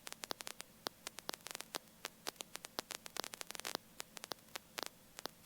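Faint crackling static on a helicopter headset intercom line: dozens of sharp, irregular clicks over a quiet hiss, with no engine or rotor sound coming through.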